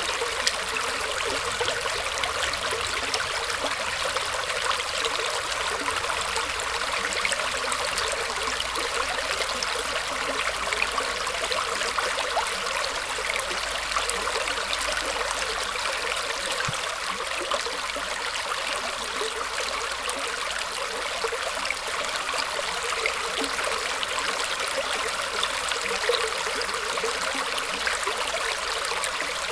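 Shallow stream of water flowing and trickling steadily, a continuous bright splashing rush with fine crackles.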